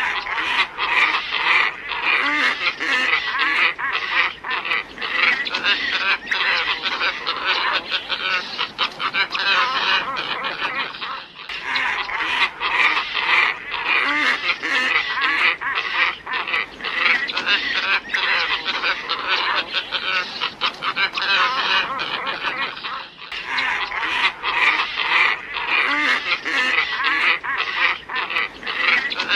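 Glossy ibises calling, many harsh croaking calls overlapping without pause, as from a flock. It is a bird-lure recording that loops: a short break and a restart about every 11 to 12 seconds.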